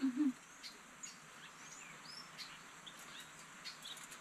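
Wild birds chirping and calling: scattered short whistled notes and quick rising and falling sweeps. A brief hummed "mm" from a person right at the start is the loudest sound.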